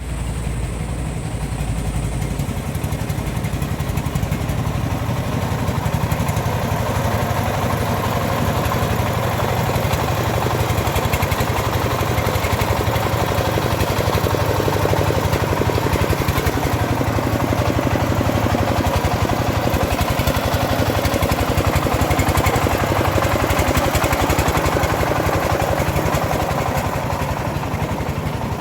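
Engine of a homemade bandsaw mill running steadily, getting a little louder over the first few seconds and easing slightly near the end.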